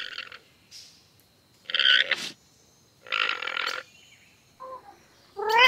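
Alpaca calling: several short, breathy, noisy calls, each under a second, with pauses between them.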